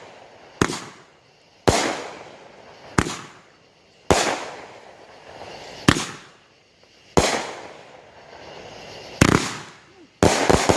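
Fireworks exploding overhead: a string of about nine sharp bangs, roughly one every second or two, each fading away, with two in quick succession near the end.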